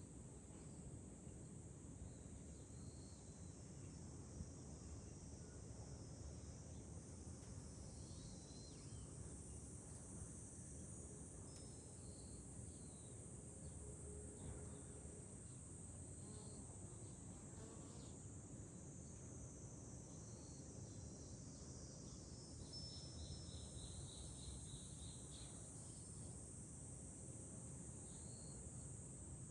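A steady, high-pitched chorus of cicadas in summer over a low steady rumble, with a few short high notes scattered through it and a quick run of repeated notes a little past two-thirds of the way in.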